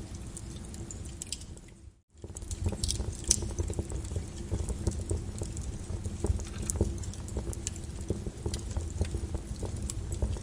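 Lava crackling and popping over a steady low rumble, with many small sharp cracks scattered through it. About two seconds in the sound fades briefly to near silence and comes back.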